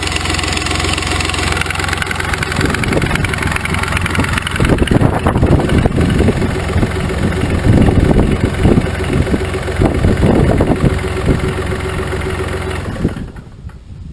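The Smart CDI three-cylinder turbodiesel engine of a diesel-converted motorcycle running. It idles steadily at first, then turns louder and more uneven from about four seconds in, and drops away near the end.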